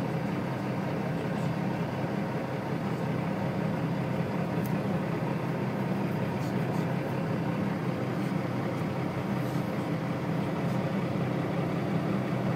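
Steady low rumble of a vehicle in motion, engine and road noise at an even level, with a few faint ticks.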